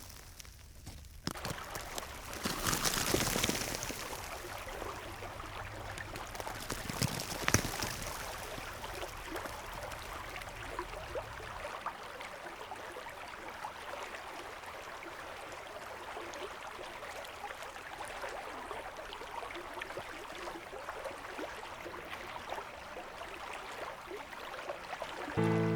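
Nolichucky River flowing: a steady rush of moving water, briefly louder about three seconds in and again near eight seconds.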